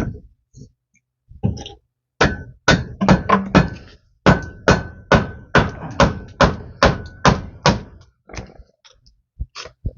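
A hammer striking in a fast run of blows, about three a second. The blows start about two seconds in and stop near eight seconds, many with a light metallic ring.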